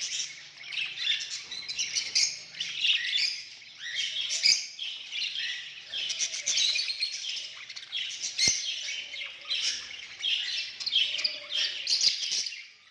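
Budgerigars chattering and warbling without a break, fast overlapping chirps, with a single sharp click about eight and a half seconds in.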